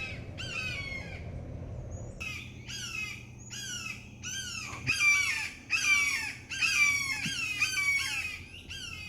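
Red-shouldered hawks calling over and over, a rapid series of descending 'kee-ah' cries about two a second with a brief pause about a second in. These are their agitated complaint calls aimed at a great horned owl in their hunting ground.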